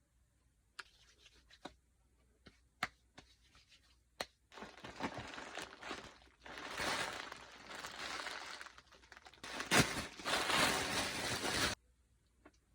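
Packaging being torn open and crinkled by hand, after a few sharp clicks. The tearing and rustling builds from about halfway through, is loudest near the end, and cuts off abruptly.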